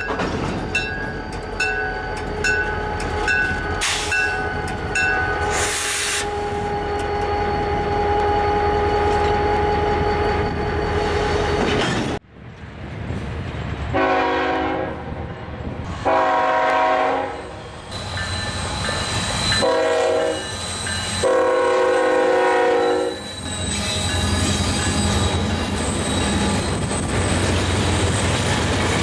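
A bell rings in a steady rhythm, about twice a second, over the rumble of a train. Then a diesel locomotive horn sounds the grade-crossing signal, two long blasts, a short one and a long one, with the train rumbling past.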